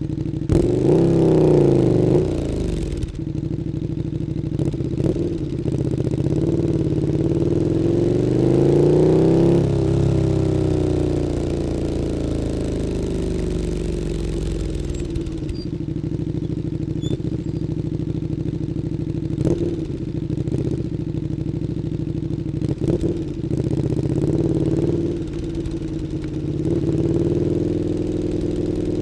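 KTM 1290 Super Duke R's V-twin running through an Akrapovič Evolution Line exhaust under relaxed riding. The engine note climbs steadily for several seconds and then falls away, with a few brief sharp changes in between and otherwise steady running at low revs.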